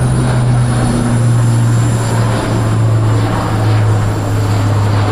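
Airbus A400M's four Europrop TP400 turboprop engines and propellers running during a flypast: a loud, steady low drone over a rushing noise, sagging slightly in pitch.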